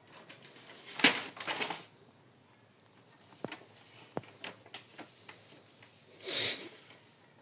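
Parrot calling with two harsh squawks, one about a second in and one near the end, with a few small clicks between them.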